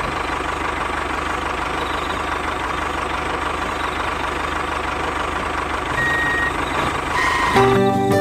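A machine running steadily, with a faint whine over a low hum. Music comes in near the end.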